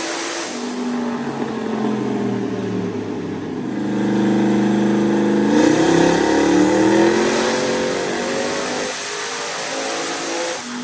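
Turbocharged small-block Ford V8 in a pickup running on a chassis dyno. It revs up louder and higher for a few seconds in the middle, then eases back off.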